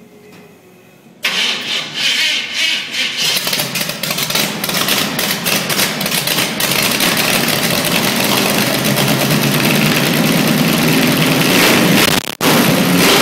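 An engine firing up for the first time: about a second in it catches abruptly, runs unevenly for a couple of seconds, then settles into steady running that builds a little. Near the end the sound drops out for an instant.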